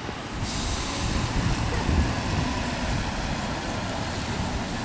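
A car driving, with steady tyre and road noise and a rushing hiss that grows fuller about half a second in.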